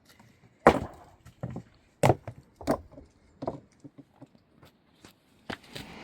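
A series of sharp knocks and blows, irregularly spaced, some loud and some light, about seven in all.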